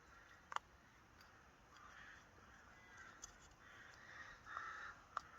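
Crows cawing faintly a few times, harsh calls each about half a second long. A single sharp click about half a second in.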